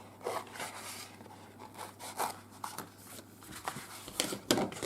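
Scissors cutting through craft foam sheet in a run of short, irregular snips, the loudest near the end.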